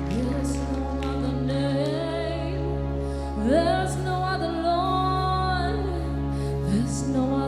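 Live worship music: a sustained keyboard pad holding steady low chords while a voice sings long wordless phrases, sliding up into held notes with vibrato three times.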